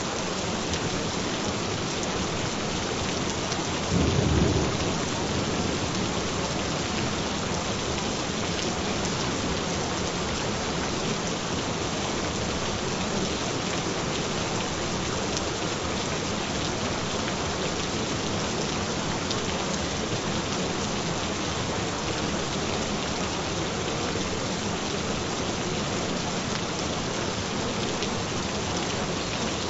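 Steady rain falling, with one short low rumble of thunder about four seconds in.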